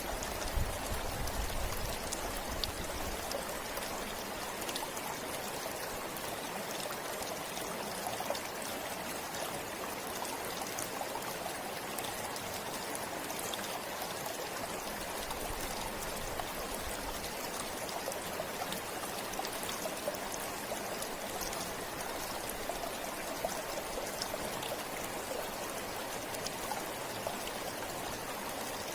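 A forest river or stream flowing steadily over rocks, a constant rushing and trickling with small splashes. There are a few faint low thumps in the first two seconds.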